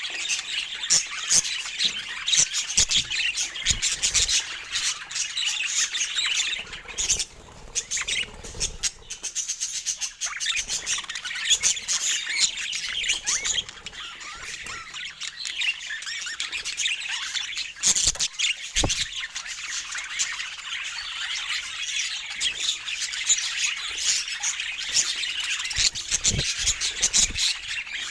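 Budgerigars chattering and warbling continuously, a dense stream of rapid chirps and squawks, with a few soft knocks.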